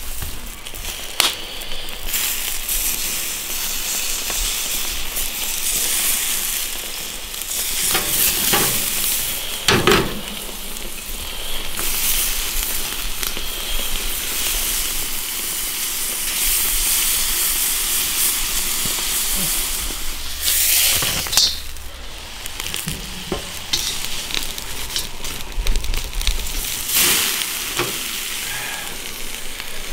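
Whole green chili peppers sizzling steadily in a perforated stainless-steel grill pan, with a few sharp knocks of metal on the pan.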